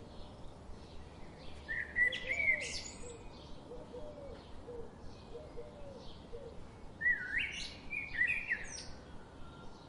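Forest birdsong: two louder warbling phrases of rising and falling notes, one about two seconds in and another about seven seconds in, over faint chirping from other birds and a soft steady hiss of forest ambience.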